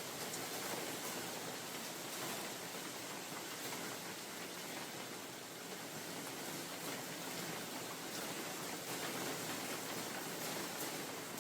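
Steady rain falling on a forest, with a few scattered drop ticks over an even hiss; wind may be blended in.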